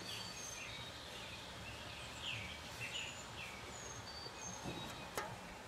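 Faint birds chirping outdoors, short high whistled notes and chirps scattered through, over steady low background noise, with a single light click about five seconds in.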